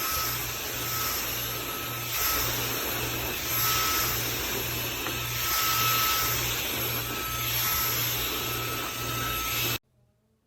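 Shark WV201 WandVac handheld vacuum running steadily, its whir swelling and easing slightly, then switched off suddenly near the end.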